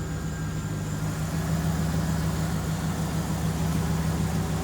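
A Jeep Grand Cherokee's 5.2-litre V8 idling steadily through a 3-inch exhaust.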